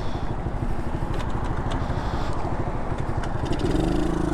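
SSR 110cc pit bike's single-cylinder four-stroke engine running under way, a fast even run of firing pulses. A steadier hum joins about three and a half seconds in.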